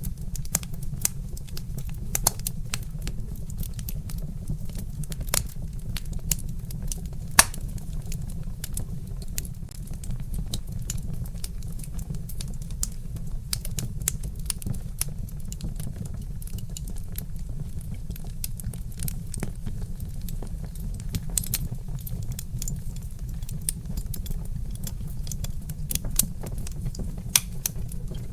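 Wood fire crackling: irregular sharp pops and snaps from burning logs, one louder pop about seven seconds in, over a steady low rumble.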